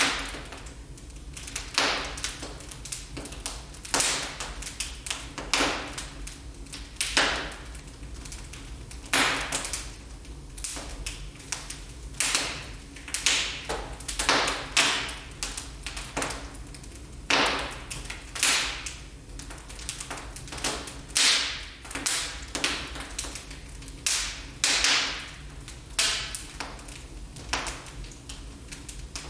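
Wood fire burning in a fireplace: sharp crackles and pops about every second, each fading quickly, over a low steady rumble.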